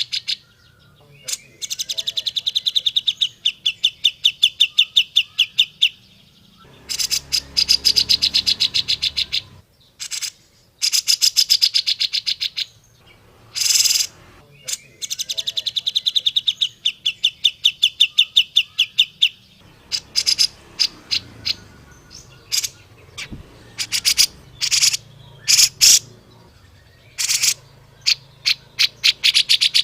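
Cucak jenggot (grey-cheeked bulbul) calling: long runs of rapid, evenly repeated high notes, each run lasting a few seconds, broken by short pauses and single sharp notes.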